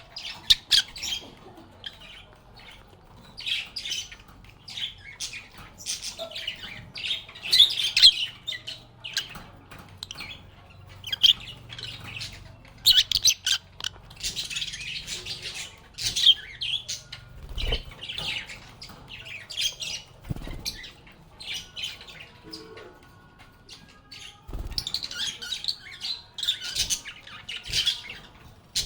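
Pet lovebirds chirping and squawking in quick, overlapping bursts of short, shrill calls, with a few dull low thuds among them.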